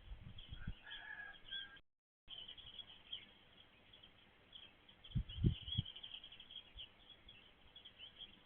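Small birds chirping and twittering, many short high notes, with a short whistled note about a second in. The sound cuts out completely for about half a second around two seconds in, and a few low thumps come near the middle.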